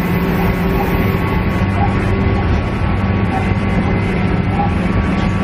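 Onboard sound of a JR East KiHa E130-series diesel railcar heard inside the passenger cabin: a steady diesel engine drone over wheel-and-rail rumble, with small creaks and rattles from the car body.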